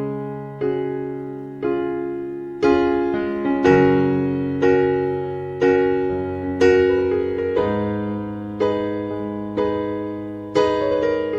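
Background music: piano (electric piano) playing slow chords, struck about once a second and left to fade.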